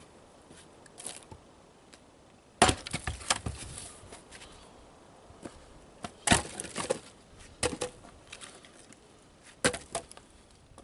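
Firewood being struck and broken: four sharp wooden strikes, the first about two and a half seconds in, each followed by a short clatter of cracking and falling pieces.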